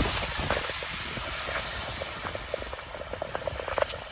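Car tyres driving through a few inches of standing floodwater, a steady hiss of spraying water heard through an open car window, with scattered small ticks of rain.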